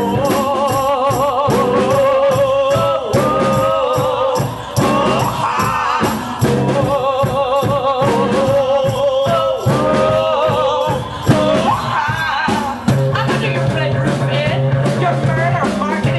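Live band music: a drum kit keeping a steady beat under a wavering, vibrato melody line, with some singing.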